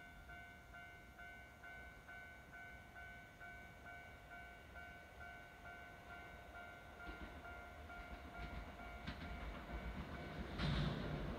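Kintetsu 80000 series Hinotori limited express train approaching: faint wheel-on-rail clatter with clicks begins about seven seconds in and grows louder near the end. Through it, a level-crossing bell dings steadily and quickly.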